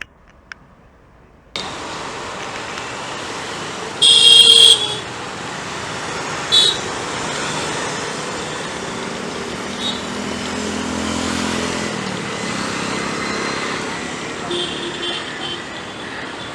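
Express train passing at speed with a steady loud rush of wheels and wind, starting suddenly about a second and a half in. A short, very loud high-pitched sound about four seconds in, and a briefer one about two seconds later.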